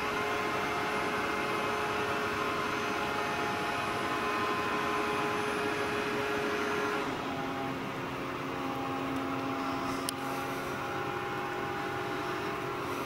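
Lexus IS200's straight-six engine running hard under load on a chassis dyno with its electric supercharger boosting, heard through the test-cell window as a steady drone with a whine. About seven seconds in, one steady tone stops and the sound settles a little lower and quieter.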